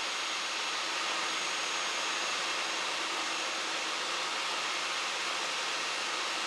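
Steady engine and airflow noise inside the cockpit of a Cessna 172 Skyhawk in flight, an even hiss-like rush with a faint high whine over it.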